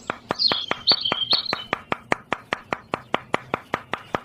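Sharp clicks repeating evenly, about five a second, with bird chirps over them in the first second and a half.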